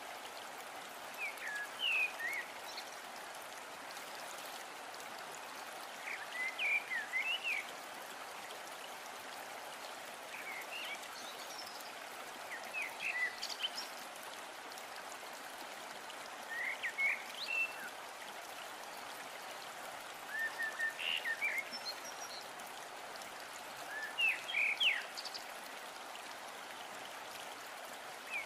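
Onion-tomato masala sizzling steadily as it fries in oil in a non-stick kadai. Clusters of short, high chirps break in every four seconds or so.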